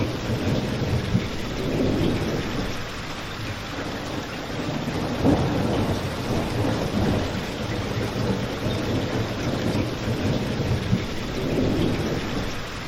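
Steady rain with a low, shifting rumble beneath it, mixed with a crackling fireplace; a single sharp crack stands out about five seconds in.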